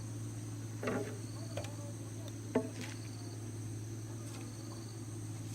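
Steady high-pitched insect chorus, with a few short knocks, the sharpest and loudest about two and a half seconds in.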